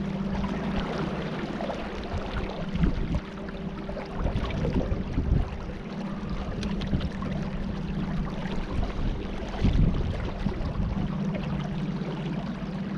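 A boat moving on the river: a steady motor hum that fades and comes back a few times, with water splashing and wind noise over it.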